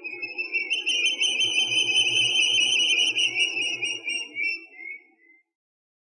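An animal call: one continuous high-pitched trill lasting about five seconds, dipping slightly in pitch as it fades out.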